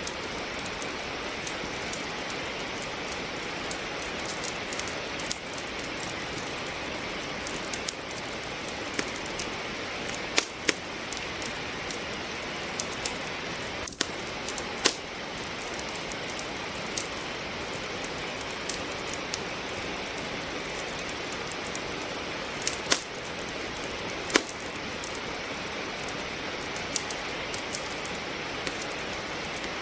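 Steady rain falling, with a wood fire crackling over it: scattered sharp pops and snaps at irregular intervals, a few louder ones standing out.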